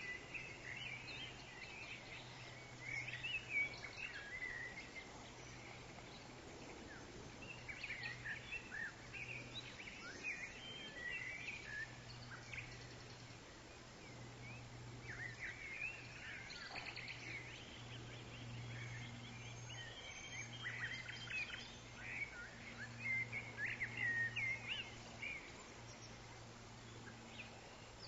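Forest ambience: many birds chirping and calling in short, scattered phrases, over a steady low hum.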